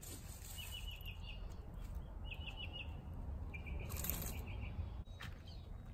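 A small songbird chirping in quick runs of four or five high notes, three times; the last run is a steadier trill. Under it runs a steady low rumble, and a short hiss comes about four seconds in.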